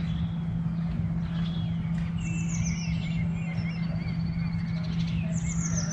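A small bird chirping: two short, high, falling whistles with some twittering between them, over a steady low hum.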